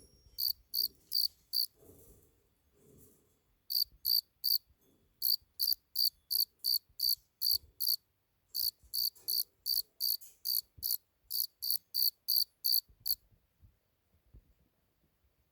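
Cricket chirping: runs of short, high-pitched chirps at about four a second, broken by brief pauses, then stopping near the end.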